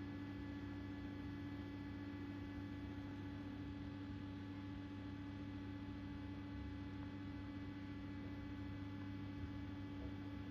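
Constructa Energy washing machine running early in a 60 °C cotton wash, giving a steady, even hum that does not change.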